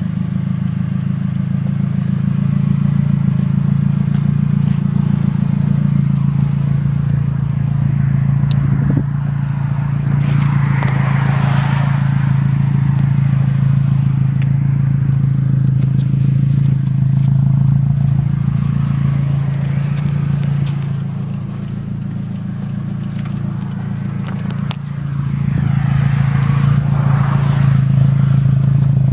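Nissan 240SX's KA24E four-cylinder engine running at a steady pitch through a catless steel exhaust with a resonator and a 4-inch tip, giving a low drone. The sound drops off for a few seconds about three-quarters through, then comes back up to its earlier level.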